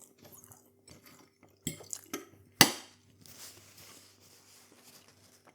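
Crockery and cutlery clinking at the table: a few light knocks, then one sharp clink about two and a half seconds in that rings briefly.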